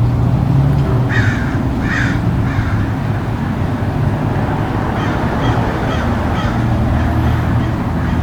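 A bird calling with harsh, crow-like caws: three strong short calls in the first three seconds, then fainter, quicker calls later on. A steady low rumble runs underneath.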